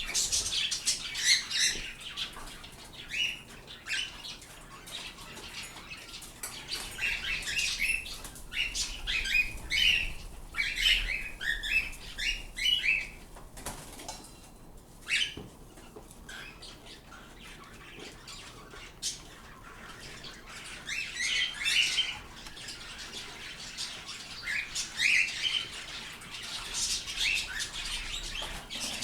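Pet birds chirping and squawking in short repeated bursts, in several busy spells with a quieter stretch about halfway through.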